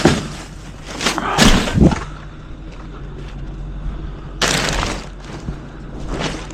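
A series of heavy thumps and bangs: a sharp knock at the start, a heavier double thump about a second and a half in, and a longer rough clatter about four and a half seconds in. Underneath runs a steady low engine hum.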